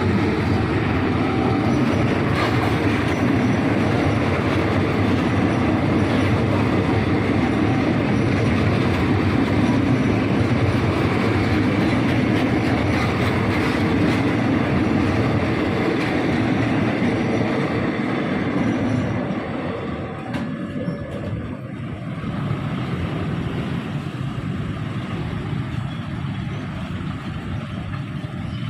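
Train running past on the rails: a loud, steady rumble of wheels and cars that drops away about twenty seconds in, leaving a lower residual noise.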